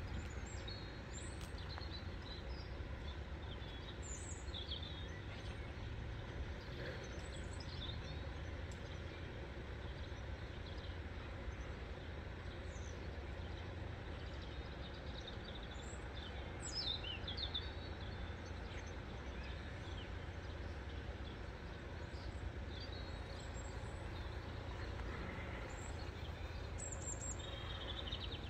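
Small birds chirping and trilling on and off over a steady low background rumble.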